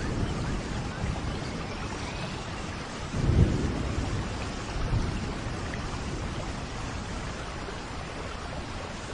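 Steady rain with rolls of thunder, the loudest rumble a little over three seconds in and a smaller one about five seconds in.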